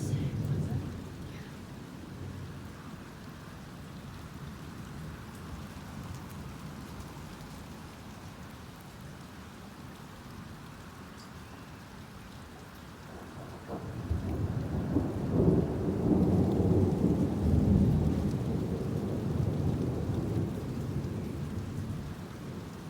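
Steady rain with thunder: a rumble trails off in the first second, then a long, low roll of thunder swells about 14 seconds in and slowly dies away.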